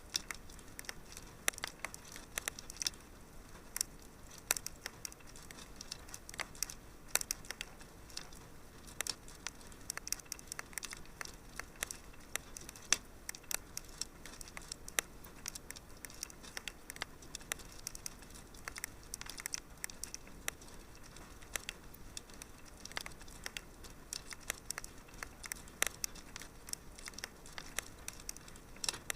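Wood fire crackling in a fireplace: many small, irregular pops and snaps over a faint steady hiss, with no pause.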